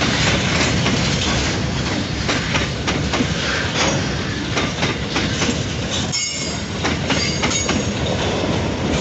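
Freight train rolling past, its wagons' wheels clacking steadily over the rail joints, with a brief high wheel squeal about six seconds in.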